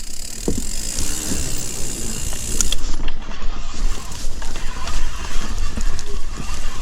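Mountain bike rolling along a dirt trail: tyre noise with the chain and frame rattling and clicking over bumps, over a steady low rumble.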